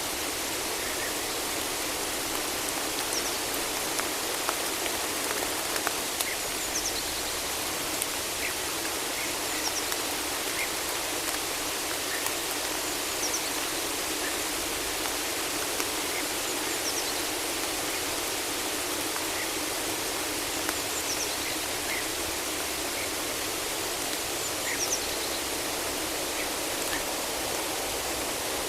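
Steady rain falling in a forest, an even hiss, with faint short high bird chirps every few seconds.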